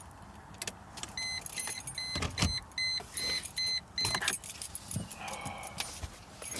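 Keys jangling and clicking with scattered knocks, and in the middle a quick run of about eight short high electronic beeps, about two and a half a second.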